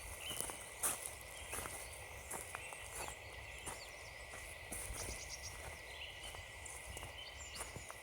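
Footsteps crunching on frozen leaves and ground at an easy walking pace, with small birds chirping and calling high in the background.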